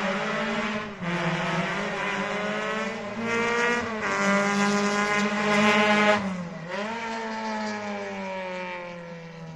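Historic rally car engine at full throttle, pulling up through the gears with a quick drop in pitch at each of three shifts, loudest about six seconds in. After the last shift the note slides slowly down and fades as the car goes away.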